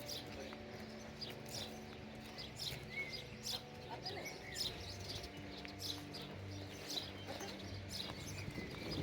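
Birds chirping and calling in many short, quick notes, over soft background music of held low notes.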